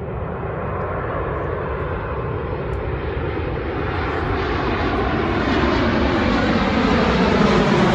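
An aircraft flying over, its engine noise growing steadily louder.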